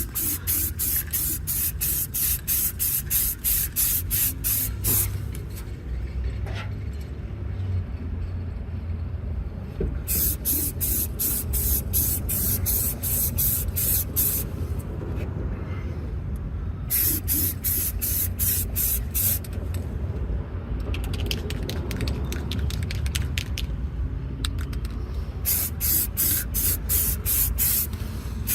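Aerosol spray can sprayed in rapid short bursts, several runs of quick hisses with pauses between, coating the helmet shell. A steady low rumble of traffic runs underneath.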